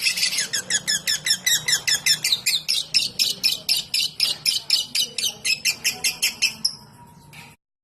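Lovebird 'ngetik' call: a fast, even run of short high chirps, several a second, like rapid ticking or typing. It thins out near the end and is cut off sharply.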